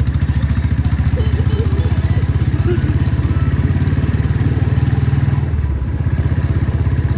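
Motorcycle engine running steadily under way, a fast, even thumping that eases briefly about five and a half seconds in.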